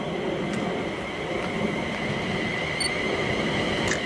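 Class 350 Desiro electric multiple unit approaching and running past: a continuous rumble of wheels on the rails, with a steady high whine over it.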